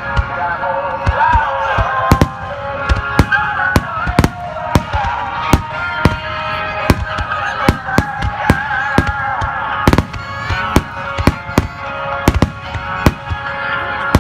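Fireworks bursting in quick succession, dozens of sharp bangs and crackles throughout, over music with a melody.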